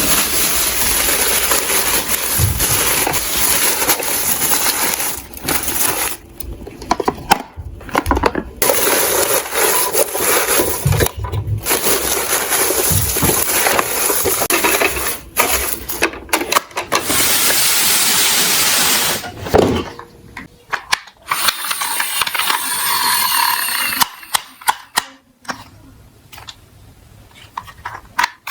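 Toy garbage trucks rolling and clattering, plastic and metal parts rattling, in stretches broken by short pauses and sharp knocks.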